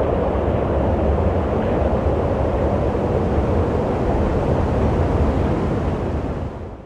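Steady rushing wind with a deep rumble, fading away near the end.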